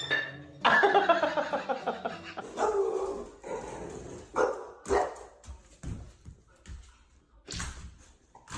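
A dog whining and barking: long, wavering pitched calls in the first half, then a string of shorter, sharper ones.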